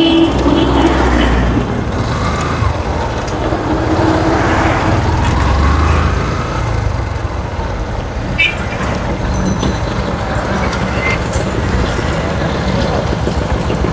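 Motorcycle riding in town traffic: the engine running steadily under road and wind noise, with other vehicles around and a horn sounding right at the start.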